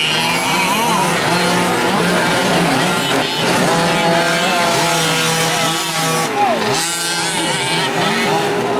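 Several 1/5-scale gas RC trucks racing, their small two-stroke engines revving and easing off, several pitches rising and falling over one another.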